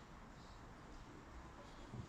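Near silence: faint steady background hiss with a low rumble underneath.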